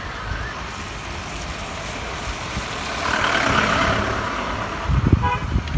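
Vehicle driving on a mountain road in the rain, with steady road noise and rumble that swells midway. A short horn toot sounds near the end, alongside a few low thumps.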